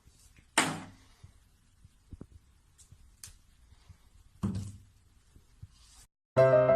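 Two sudden thumps, the first loud and the second softer about four seconds later, with faint ticks in between. Piano music starts near the end.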